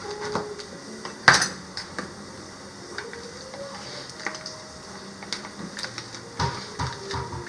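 Light clinks and knocks of cookware and utensils, with one sharp, louder knock about a second in.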